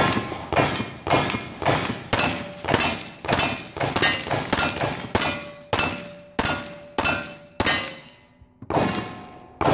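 A fast series of loud, evenly spaced knocks or strikes, about three a second, with a short break around eight seconds in.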